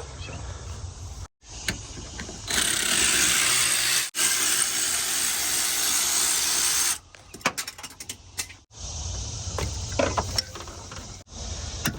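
A power tool runs steadily for about four and a half seconds while bolts are undone under a vehicle's dash, with short metallic clicks and knocks of tools before and after it.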